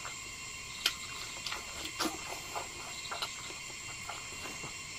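Close-up eating sounds: wet mouth clicks and lip smacks, several in a few seconds, as a man chews a mouthful of rice and egg, over a steady high-pitched background hiss.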